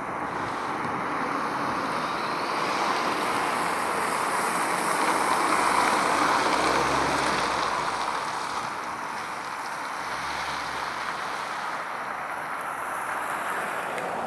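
A vehicle passing on the road: a rushing tyre and road noise that swells to its loudest about six seconds in and then fades.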